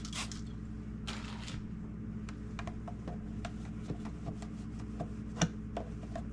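Light clicks and taps of containers and food items being handled and set down in a refrigerator, over a steady low hum, with a short hiss about a second in.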